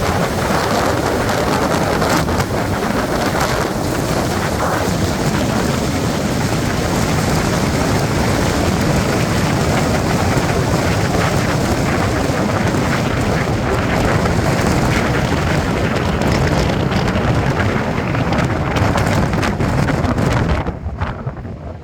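Loud, steady rush of wind and road noise from a moving car, with wind buffeting the microphone. It drops off and turns duller about a second before the end.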